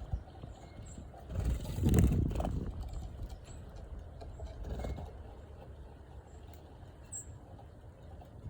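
A few short, very high bird chirps over low rumbling and thumping, which is loudest about two seconds in.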